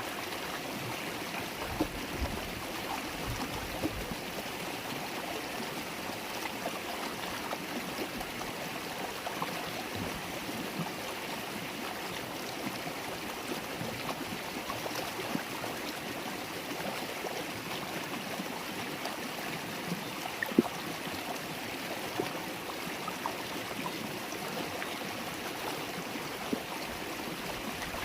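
River water babbling as it flows: a steady rush with small scattered ticks, and one sharper click about two-thirds of the way through.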